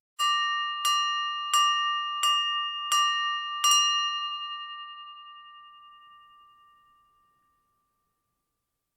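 A metal object struck six times at an even pace, about one and a half strikes a second, with a clear bell-like ring of several high tones. The ring dies away slowly over a few seconds after the last strike.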